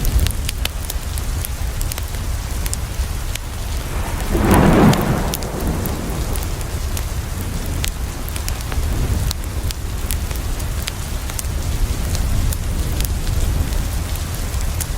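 Steady rain falling against a window, with the sharp pops of a crackling wood fire, and a short rumble of thunder about four seconds in.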